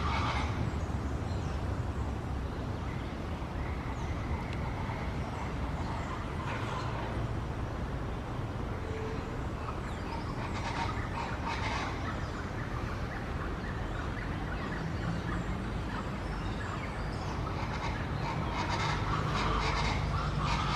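Bird calls in short clusters several times, over a steady low rumble.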